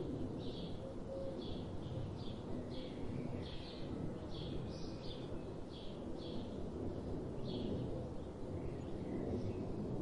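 A bird's short high chirps, repeated about once or twice a second and thinning out near the end, over a steady low rumble of background noise.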